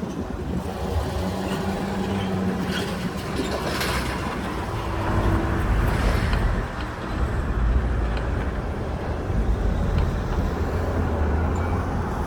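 Steady low rumble of road traffic, with brief engine tones rising out of it.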